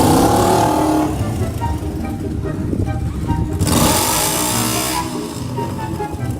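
A car engine revving, its pitch swinging up and down at the start and again about four seconds in, with music underneath.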